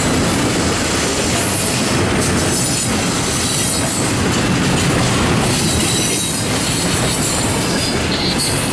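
Double-stack intermodal freight cars rolling past on steel wheels: a steady loud rumble with clicking over the rail joints and a high wheel squeal at times. The sound eases slightly near the end as the last car goes by.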